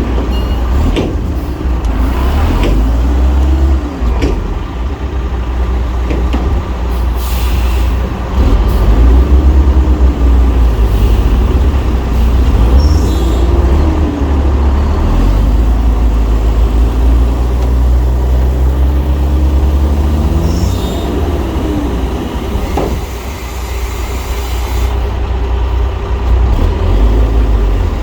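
Heavy diesel engines of earthmoving machinery running loud and steady, the engine note swelling and falling back every few seconds, with a few short sharp hisses.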